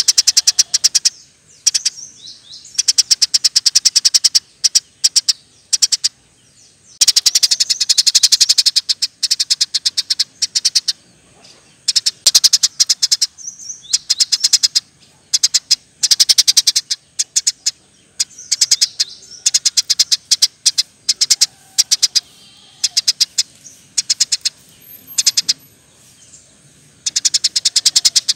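Eurasian tree sparrow singing in loud, rapid chattering trills: fast runs of sharp chirps lasting a second or two each, broken by short pauses.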